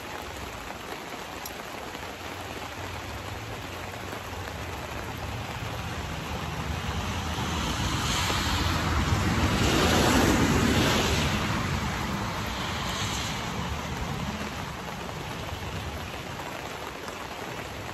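Steady rain falling. Midway, a vehicle passes on the wet road: its tyre hiss builds, peaks about ten seconds in and fades away.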